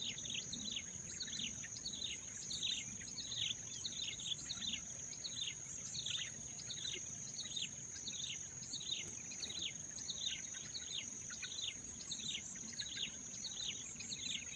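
Birds giving short, high, downward-sliding chirps, repeating steadily about two to three times a second, over a continuous high-pitched insect drone.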